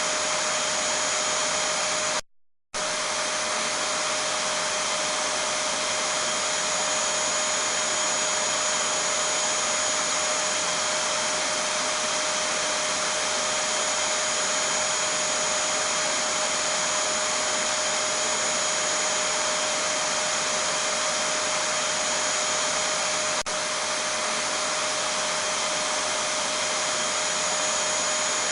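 Vacuum cleaner (hoover) running steadily: an even rush of noise with a constant whine over it. It cuts out for about half a second a couple of seconds in, then carries on unchanged.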